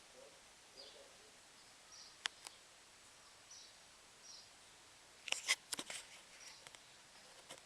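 Small birds chirping faintly with short high calls, one every second or so. Two sharp clicks come about two seconds in, and a louder burst of clicks and snaps comes about five seconds in.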